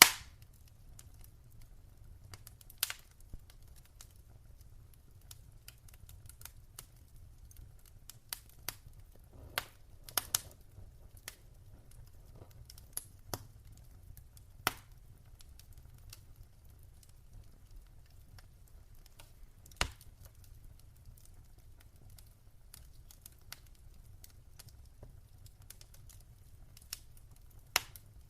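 Wood fire in a fireplace crackling: scattered sharp pops and snaps every second or so, a handful of them louder, over a faint steady low rumble.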